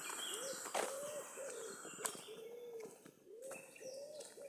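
A pigeon cooing in a steady run of low, rounded notes, with small songbirds chirping higher and two soft clicks about one and two seconds in.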